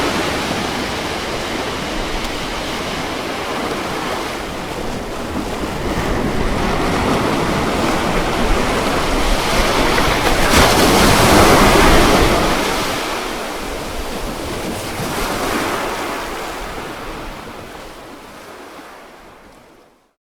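Ocean waves breaking and washing in, a steady rush that swells to its loudest about halfway through, then fades away almost to silence at the very end.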